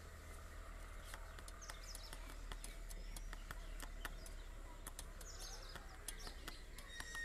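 Birds chirping, many short high calls scattered through, with a few faint clicks over a steady low hum.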